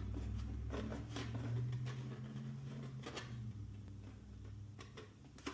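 A wing nut being hand-cranked down on a threaded rod, clamping the aluminum flashing into a grooved-plate Stirling displacer: a few faint clicks and scrapes over a low hum that fades about halfway through.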